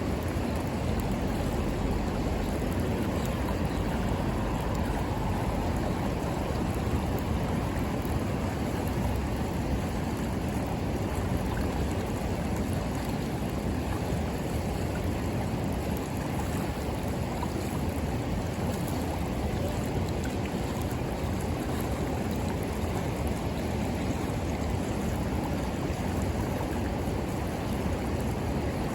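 River water flowing past the bank: a steady, even rush with no breaks.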